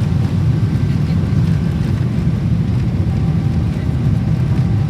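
Cabin noise inside a Boeing 777-300ER's economy cabin: a steady, loud low rumble of engine and air noise that holds even throughout.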